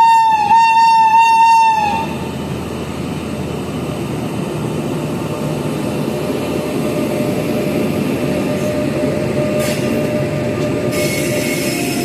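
A WAP-7 electric locomotive's horn sounding for about two seconds in three quick pulses, then the steady rumble of the train's wheels and coaches as it pulls out on departure. Near the end a faint whine and short hissing bursts of wheel squeal come in.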